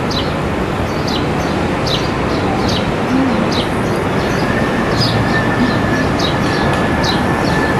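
A bird chirping over and over, short falling chirps about once a second, over a loud steady rushing background noise.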